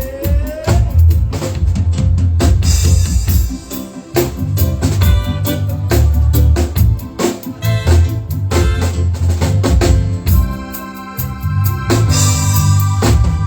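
Live band playing an instrumental passage: drum kit with bass drum, bass line and organ chords.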